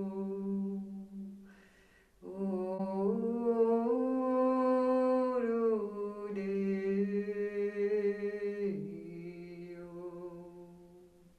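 A woman's voice toning long, wordless held notes that slide from pitch to pitch, with a breath about two seconds in, fading out near the end.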